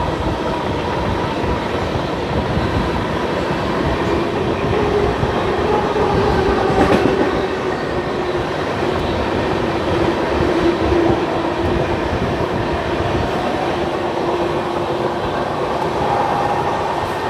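Seemanchal Express passenger train running at speed, heard from a coach window: a steady rumble of wheels on rail with clickety-clack, and a sharper knock about seven seconds in.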